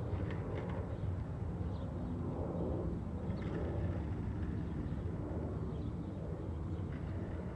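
Steady low outdoor background rumble, with a few faint short high chirps over it.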